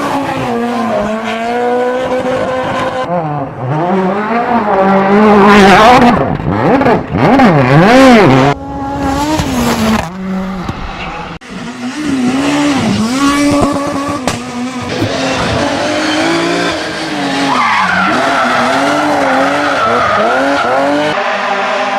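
Rally car engines at full throttle, revving up and dropping again and again through gear changes, with tyre noise under them. The fastest, loudest rise and fall of revs comes about halfway through.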